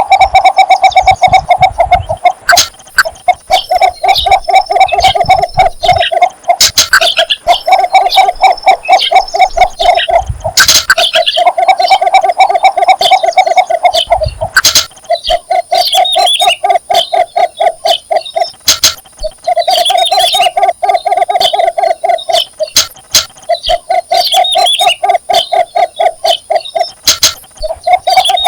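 Cinnamon bittern giving its mating call: repeated runs of rapid, low clucking notes, each run two to three seconds long with short pauses between.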